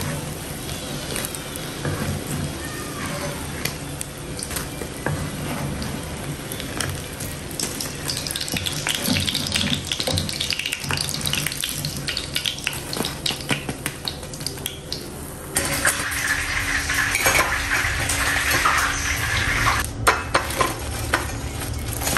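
Prawn fritters sizzling in hot oil in a frying pan, with a wooden spatula and wire skimmer scraping and clicking against the pan as they are lifted out. After a change partway through, a few sharp clinks come near the end.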